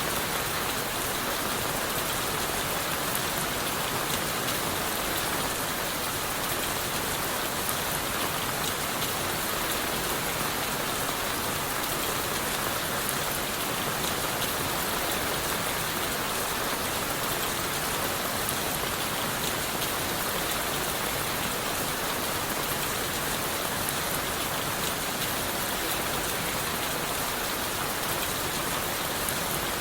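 Steady rain falling on leaves, wood and the forest floor, with dense patter and scattered individual drop ticks.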